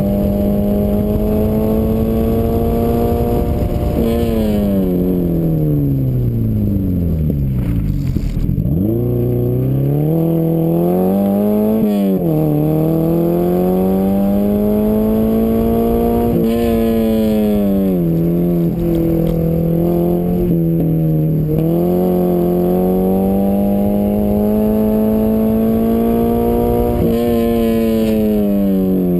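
1995 Dodge Neon ACR's four-cylinder engine driven hard through an autocross run, its pitch rising and falling with the revs. The revs drop steeply about four seconds in, climb back, then dip briefly several more times.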